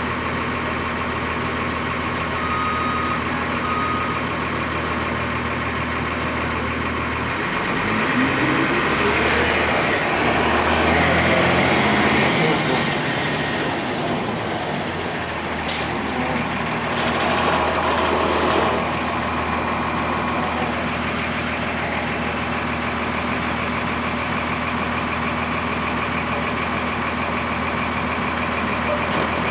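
A 2002 Blue Bird CS transit bus's Cummins ISC inline-six diesel runs steadily at low speed, then about seven seconds in revs up with a rising pitch as the bus pulls away. It settles back to a steady drone after about twenty seconds. A brief sharp hiss or click comes just past halfway.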